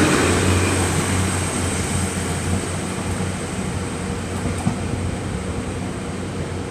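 Taiwan Railways DR2800 diesel multiple unit running, its diesel engines droning low over the rumble of the wheels. The sound fades steadily as the train moves away, with a faint click or two from the wheels.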